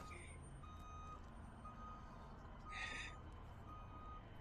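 Vehicle backup alarm beeping faintly about once a second over a low engine rumble, with a short hiss about three seconds in.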